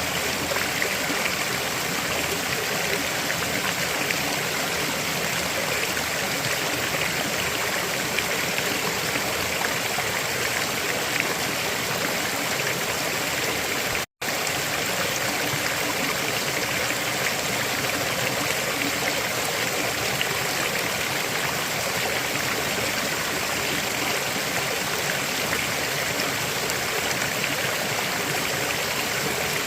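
River water flowing in a steady, even rush. A split-second dropout to silence comes about halfway through.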